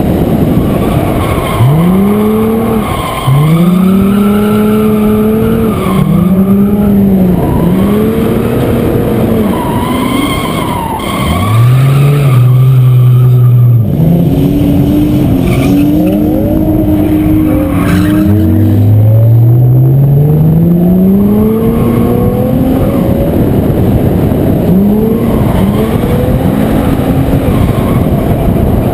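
Car engine being driven hard: it revs up and drops back every second or two through the corners, then climbs steadily in pitch on one longer pull about two-thirds of the way through, over a constant rush of wind and tyre noise.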